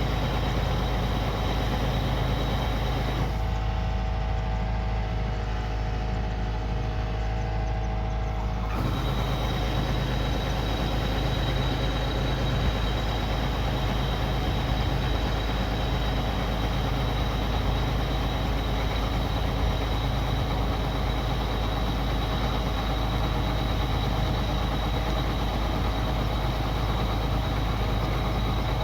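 Kubota rice combine harvester running steadily while harvesting: a constant low diesel drone with a thin high whine over it. The higher sounds drop away for a few seconds near the start, then return.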